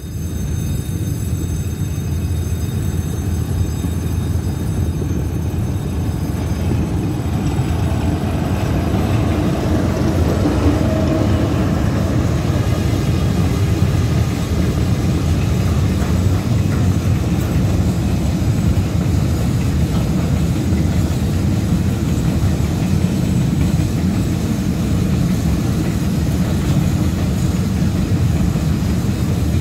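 Freight train rolling past, a steady heavy rumble of wagon wheels on the rails that grows louder over the first several seconds as the train draws near.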